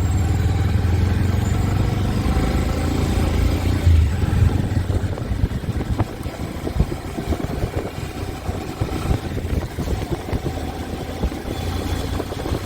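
Motorcycle engine running while riding, likely a Bajaj Avenger 160 single-cylinder. The steady low hum of the first few seconds gives way to a rougher, choppier rumble after about four seconds.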